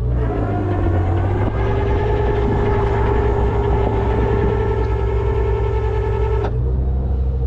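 Rollback tow truck's engine running with its hydraulics engaged: a steady whine from the bed hydraulics over the low engine rumble, rising slightly as it comes on, then cutting off suddenly near the end as the control is released, while the pickup is unloaded off the bed.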